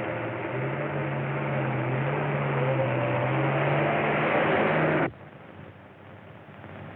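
A vehicle engine running loud and steady, its low hum climbing slightly in pitch, cut off abruptly about five seconds in.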